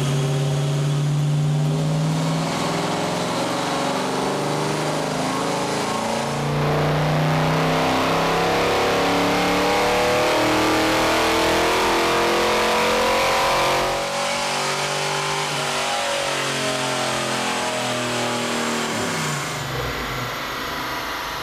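Fox Body Mustang's BluePrint 302 small-block Ford V8 making a fourth-gear wide-open-throttle pull on a chassis dyno. The engine note climbs steadily in pitch and gets louder about six seconds in. Near fourteen seconds the throttle closes and the revs fall away as the car coasts down on the rollers.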